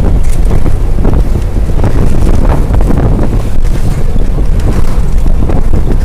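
Strong wind buffeting the microphone: a loud, continuous low rumble and roar.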